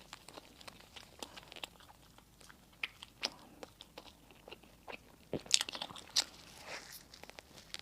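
Close-up eating sounds: a person chewing crispy bread and sandwich fillings, with irregular crunches and small wet clicks, and a louder run of crunches about five and a half seconds in.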